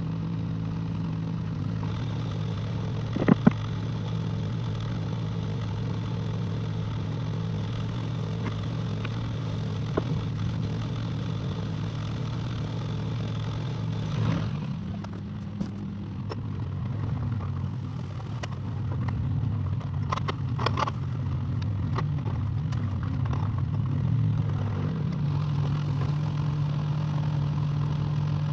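Excavator's diesel engine running steadily, with a steady high whine over it for the first half. There is a sharp knock a few seconds in and a cluster of clattering knocks about two-thirds through, and the engine's note shifts about halfway.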